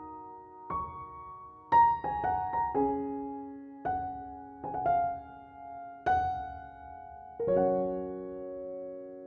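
Slow, gentle solo piano music: single notes and chords struck and left to ring, a held chord fading out near the end.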